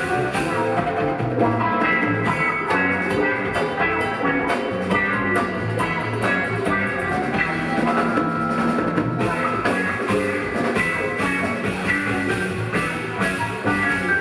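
A live rock band playing an instrumental jam: electric lead guitar, bass, keyboards and drums with a steady beat.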